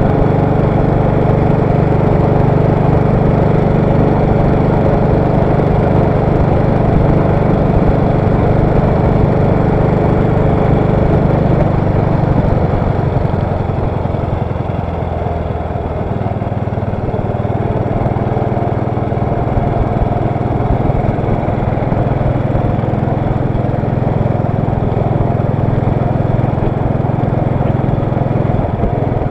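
1929 BSA 500 side-valve single-cylinder motorcycle engine running under way, heard from on board. Its note drops and loosens for a few seconds about halfway through, then steadies again.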